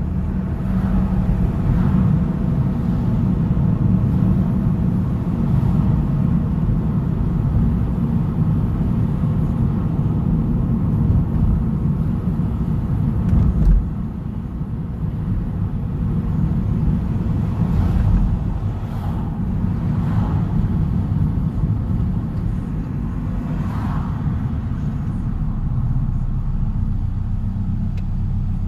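Subaru Impreza's flat-four with a Blitz Nur Spec aftermarket exhaust, heard from a following car: a steady low rumble of exhaust, engine and road noise while driving. A short thump comes about 14 seconds in, after which it is slightly quieter.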